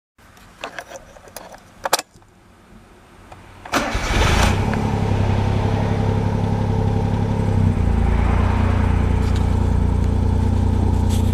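A few light clicks and rattles of the ignition key, then the Suzuki Cappuccino's small three-cylinder engine cranks briefly and catches about four seconds in, settling into a steady idle.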